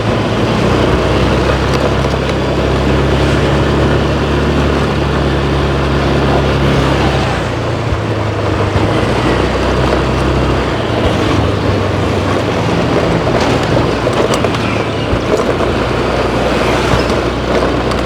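Steady vehicle and road noise while riding: a low engine hum under a constant rush of moving air and traffic. The hum eases off a little under halfway through.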